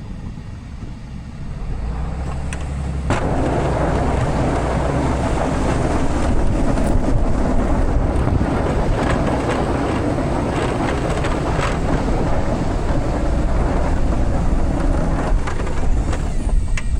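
Plow truck running with a steady low rumble. About three seconds in, a much louder rushing noise sets in suddenly and holds until near the end.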